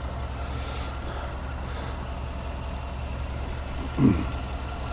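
Ford F-150 pickup engine idling steadily, a low even hum. A short falling vocal sound about four seconds in.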